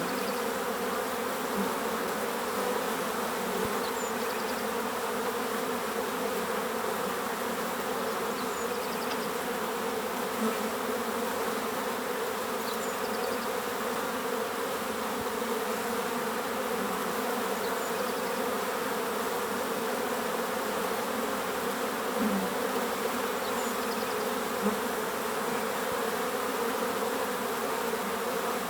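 Many bees buzzing in a steady, dense drone, with a bird giving a short high chirp about every four seconds.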